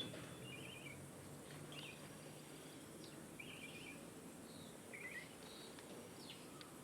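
Small birds giving faint, short chirps in quick little trills, repeated every second or two over a steady background hiss.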